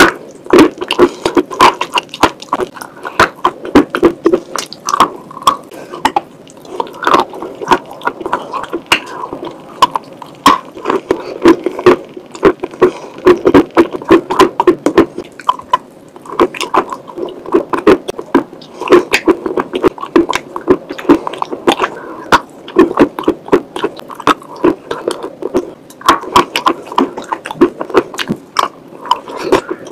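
Close-up wet chewing and mouth sounds of eating chalk paste soaked in water: a dense, irregular run of sticky clicks and smacks, with fingers scraping the paste on a plate.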